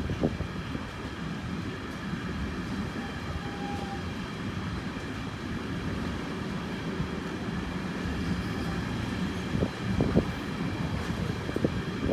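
A train running past on the track, a steady rumble with a few sharp knocks near the end.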